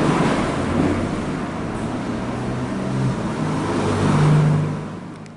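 An engine running with a low hum that rises and gets louder about four seconds in, then the sound fades out near the end.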